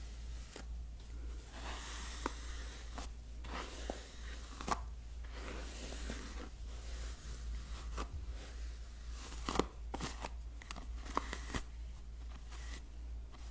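Hairbrush bristles making repeated scratchy swishing strokes, with scattered light clicks and a steady low hum underneath.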